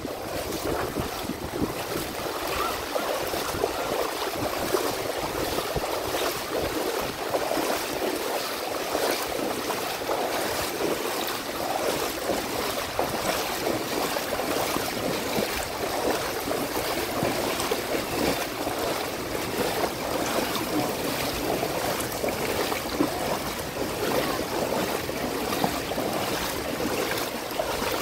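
Heavy rain with water running and splashing through a flooded street: a steady, even rushing hiss.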